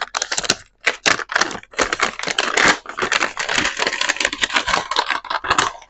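A plastic bag of small frame nails being handled, the nails clicking and rattling against each other in a dense, irregular run.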